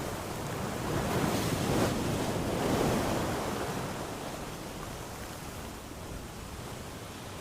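Sea waves breaking on a shore: a wave swells and crashes about a second in, then washes back and fades to a softer surf hiss.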